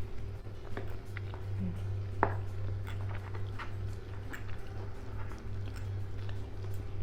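Close-up eating sounds: chewing and biting, with small clicks of cutlery and dishes and one sharper click about two seconds in, over a steady low hum.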